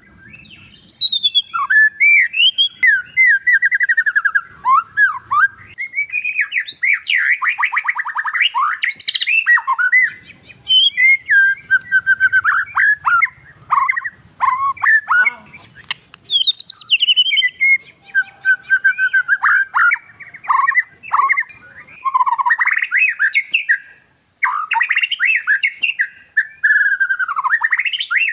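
Oriental magpie-robin (kacer) singing a loud, continuous, varied song of rapid whistles, trills and gliding notes, broken by short pauses. A steady high-pitched whine runs underneath.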